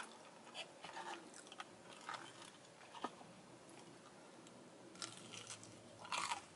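Close-up eating sounds of a person biting into and chewing a breaded, cheese-filled jalapeño popper. Quiet crunches and wet mouth sounds come in short scattered bits, with a slightly louder one near the end.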